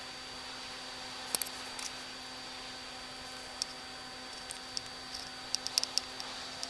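A few light clicks and taps of small objects being handled, a cluster of them near the end, over a steady hum.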